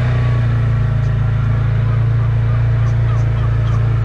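Small engine running at a steady speed, a loud, even low hum.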